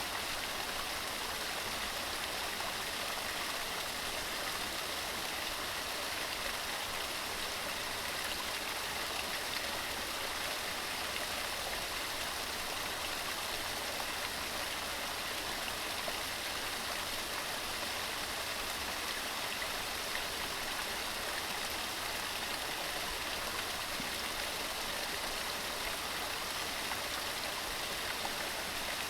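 Waterfall cascading over rocks: a steady, unbroken rush of falling and splashing water.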